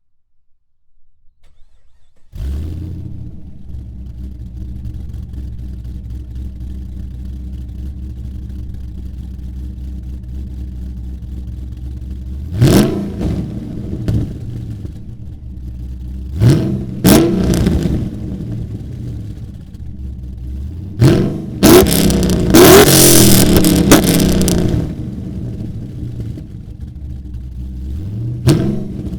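Holden Caprice engine breathing through a Walkinshaw aftermarket exhaust: it starts about two seconds in, settles into a steady low idle, and is revved in several quick blips plus one longer rev lasting a few seconds past the middle.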